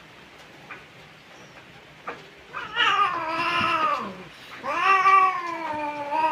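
Domestic village cat caterwauling in mating season: two long drawn-out yowls, each falling in pitch, the first starting about two and a half seconds in.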